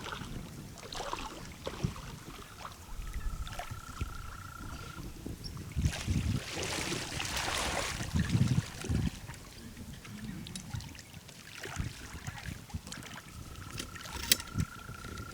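Water splashing and lapping at the shore, with a few low knocks and a stronger surge of splashing about six to eight seconds in. A thin steady whistle-like tone sounds twice, each time for about two seconds.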